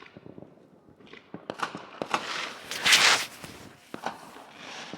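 Fireworks popping and crackling in a rapid irregular run, swelling to a loud dense crackle about three seconds in.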